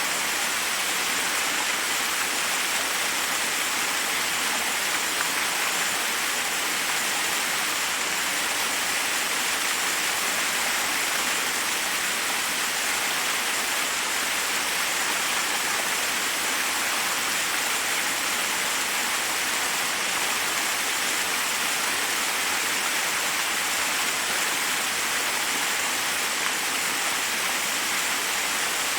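Forest waterfall: water rushing steadily over rocks, an even hiss of falling water with no breaks.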